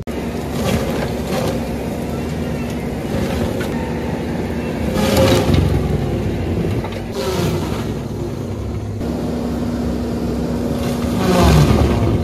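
Skid-steer loader running hard, driving a CONETEKS 2.13SF hydraulic forestry mulcher, with a steady hum from the machine. The sound swells louder about five seconds in and again near the end.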